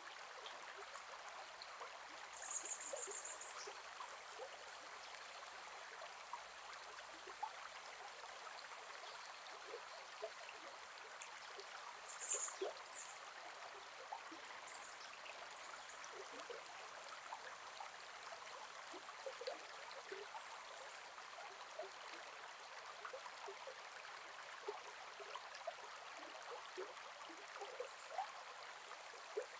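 Gentle forest river flowing steadily over stones, a soft rushing burble with small splashes and trickles. A few brief high chirps cut through it about three seconds in and again around twelve seconds.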